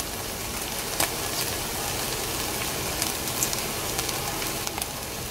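Pork and diced peppers frying in a skillet: a steady sizzling hiss with scattered sharp pops.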